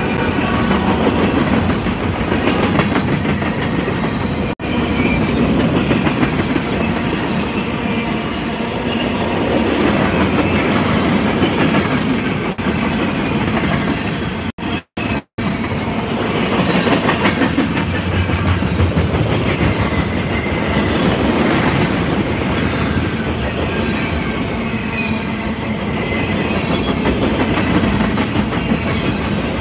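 Freight train passing close by, its locomotives followed by gondolas and covered hoppers, with steel wheels clacking over rail joints under a steady rumble. The tail of a locomotive horn blast fades out in the first second, and the sound cuts out briefly twice in the middle.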